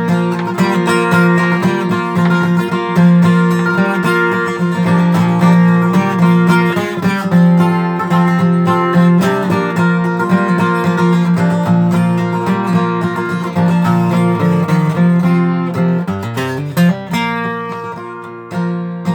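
Acoustic guitar strumming chords through an instrumental break between verses of a country gospel song.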